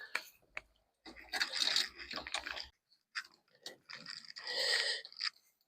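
Clicks and crunching, scraping strains of a tool twisting a spin-on oil filter that is stuck far too tight on a Ford 2.0 Pinto engine, in two efforts about a second and four seconds in.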